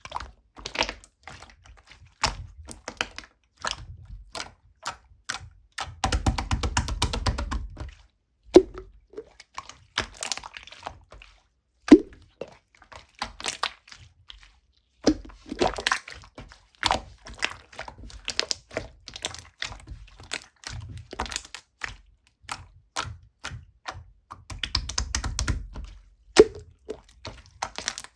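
A run of irregular small clicks, taps and knocks on hard objects, with two stretches of fast rattling and a few sharper knocks.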